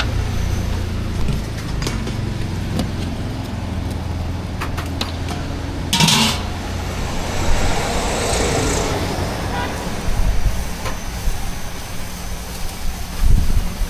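Street traffic: a steady low engine hum, a short sharp hiss about six seconds in, then a couple of seconds of rushing noise as if a vehicle passes.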